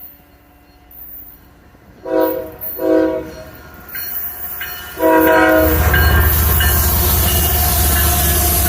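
Freight locomotive horn sounding two short blasts and then a third as the train comes up close. From about five seconds in, the diesel engine's loud rumble and the rail noise of the passing train take over.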